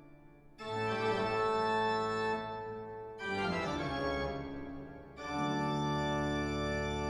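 Background music: slow, sustained organ chords, three in a row, each swelling in and slowly fading.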